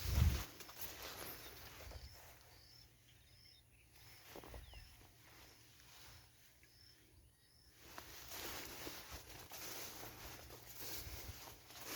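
Quiet outdoor nature ambience with faint hiss. A low thump comes right at the start, and a run of short, high chirps repeats about once or twice a second through the middle.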